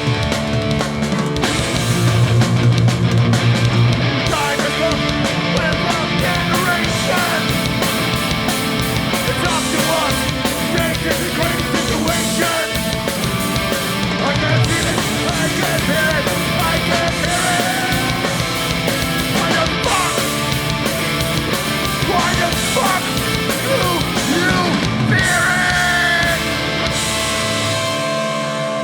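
Hardcore punk band playing live at full volume, with distorted guitars, bass and drums. Near the end the bass and drums drop away.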